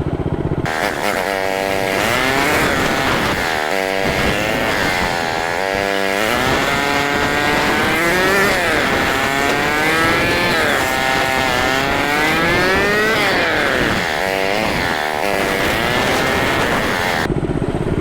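Mini bike's small engine revving under way, its pitch climbing and dropping again and again as the throttle is opened and eased off. It starts sharply about a second in and drops back to a steadier, lower running sound near the end.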